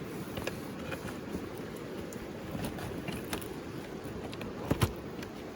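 Bamboo fire crackling with scattered small pops and two louder sharp cracks close together near the end, over the steady rush of a river.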